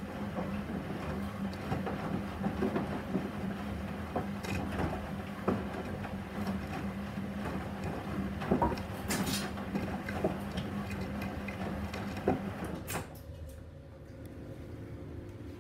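Gorenje SensoCare washing machine running its drum, with a steady motor hum, soft knocks and the slosh of wet laundry turning. The drum motion stops about 13 seconds in, leaving a quieter hum.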